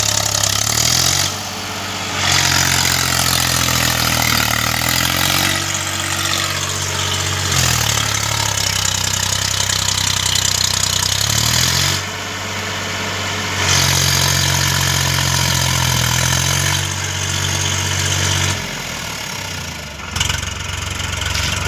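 Swaraj tractor's diesel engine under heavy load, its note climbing and falling back about three times as it strains to pull the tractor out of sand.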